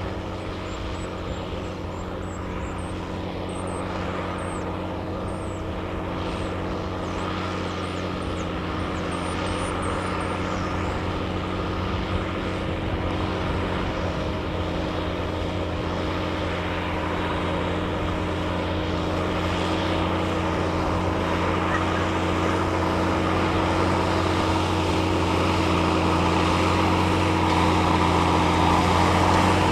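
Fendt 818 tractor's six-cylinder diesel engine running steadily under load while pulling a plough, growing gradually louder.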